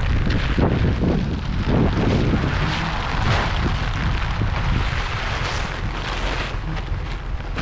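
Wind buffeting the microphone in uneven gusts, a heavy rumbling rush.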